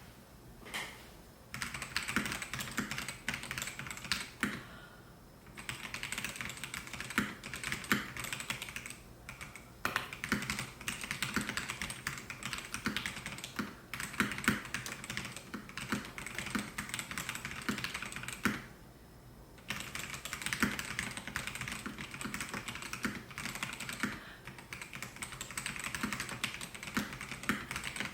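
Typing on a Melgeek Mojo68 mechanical keyboard with white switches: runs of quick keystroke clicks, with brief pauses about 5, 10 and 19 seconds in.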